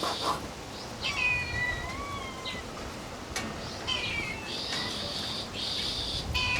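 Drawn-out, meow-like animal cries: a long one about a second in, a shorter one about four seconds in, and another right at the end.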